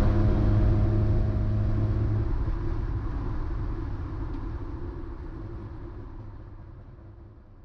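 Onboard sound of a Mazda MX-5 race car: engine and road rumble with a steady engine hum that stops about two seconds in, the whole sound fading out steadily toward near silence.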